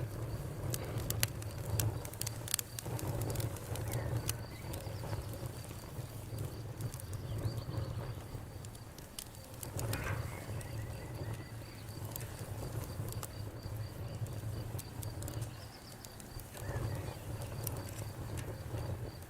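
Campfire crackling, with sharp pops and snaps scattered over a steady low rumble of the burning wood. A faint steady high tone runs under it.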